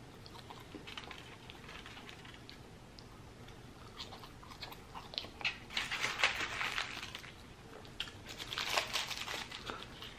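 Close-miked chewing of French fries and a lamb gyro: soft, wet mouth clicks and smacks, busier in the second half.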